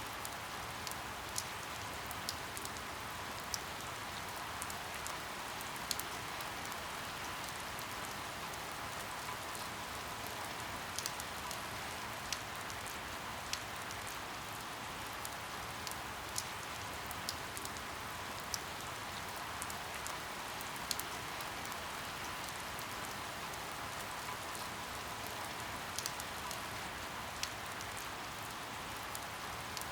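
Steady rain falling, with individual drops landing in sharp, irregular ticks over the even hiss.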